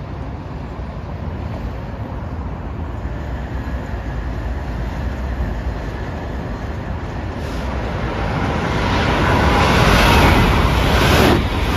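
Steady road traffic noise with wind on the microphone. A passing vehicle swells louder from about eight seconds in, then falls away sharply near the end.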